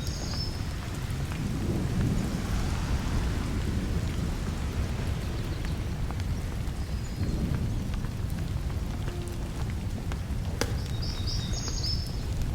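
Steady rain with a continuous low rumble of thunder. A short high chirp comes about eleven seconds in.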